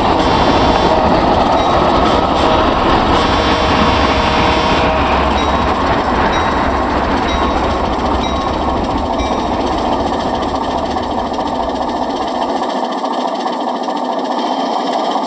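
Model diesel train running on a club layout: a steady, dense rattling run with a few faint steady tones over it early on. The deepest part of the sound drops away near the end.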